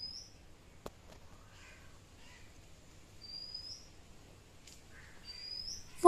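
A bird calling faintly: a short, high whistle rising in pitch, given three times a couple of seconds apart. A single faint click comes about a second in.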